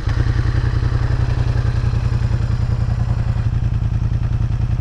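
Yamaha MT-07's parallel-twin engine idling just after starting, through an aftermarket Mivv exhaust: a loud, steady, even pulsing with no revving.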